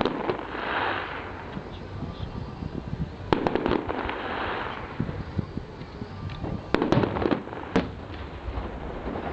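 Fireworks going off: several sharp bangs a few seconds apart, each followed by a hissing, crackling trail.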